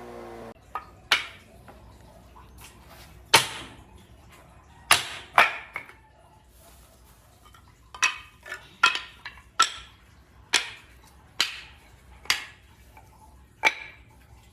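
A power tool's whine falls and stops in the first half second. Then about a dozen sharp knocks and taps follow at irregular intervals, typical of hand work on wood such as hammer taps.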